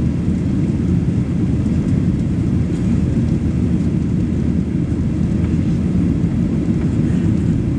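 Boeing 737 Next Generation's CFM56-7B jet engines running steadily at takeoff power, heard as a constant loud low rumble with little high-frequency content.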